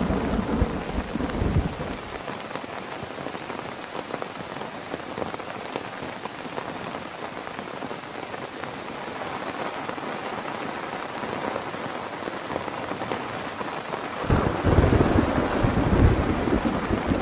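Heavy rain falling steadily, with thunder rumbling through the first two seconds and again, louder, for the last three seconds.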